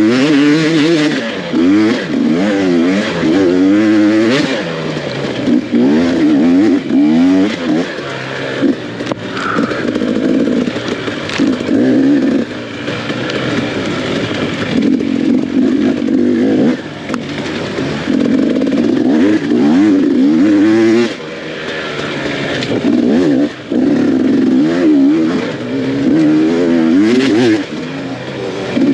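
Off-road dirt bike engine revving up and down again and again as the rider accelerates, shifts and backs off through the trail, its pitch rising and falling every second or two.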